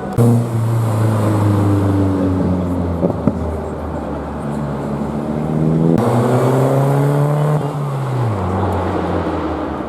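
Car engine under load: a deep steady note that slowly sinks for the first few seconds, then about six seconds in a higher note that climbs and drops sharply near the end as the revs fall.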